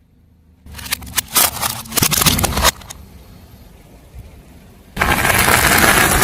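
A car tyre rolling over and crushing brittle objects: a run of sharp cracks and crunches for about two seconds, then a loud, dense crunching scrape from about five seconds in. A low car engine hum runs underneath.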